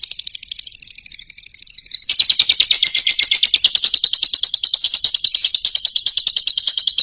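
Fischer's lovebird singing: a fast, even, high-pitched trill of many chirps a second, louder from about two seconds in.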